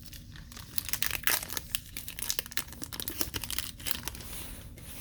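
Foil trading-card pack being torn open and crinkled by hand: irregular crackling and tearing, busiest in the first few seconds and thinning out near the end.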